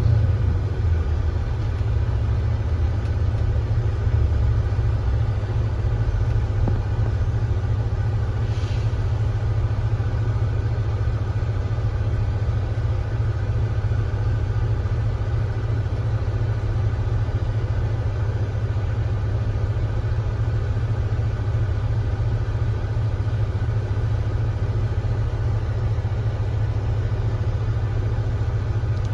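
Kia Granbird Sunshine coach's engine running steadily at low, even revs like an idle, a deep hum that settles right at the start and then holds unchanged.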